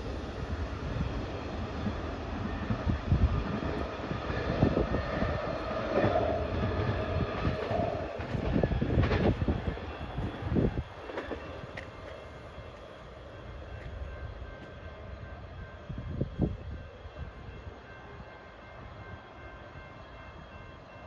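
A train rolling past on the rails, with irregular clanks and knocks from the wheels and cars over roughly the first ten seconds. Then its rumble grows quieter as it moves away.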